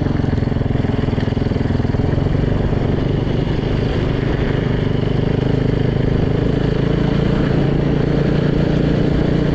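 Freshly rebuilt Yamaha YZ450 dirt bike's single-cylinder four-stroke engine running steadily while the bike is ridden, its pitch holding fairly even.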